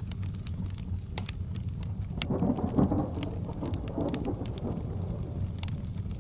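A roll of thunder swells about two seconds in, peaks near three seconds and fades by about five, over a crackling wood fire with scattered sharp pops and a steady low bed of rain.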